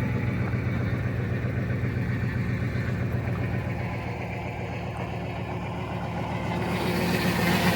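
2005 Cadillac Escalade's V8 engine idling steadily shortly after being started, with the power steering and hydro boost system freshly filled but not yet bled. The idle grows a little louder near the end.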